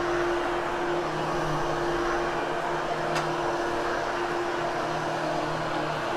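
Hoover Hushtone upright vacuum cleaner running steadily as it is pushed over a freshly cleaned pile carpet, with a steady hum and a single faint click about three seconds in.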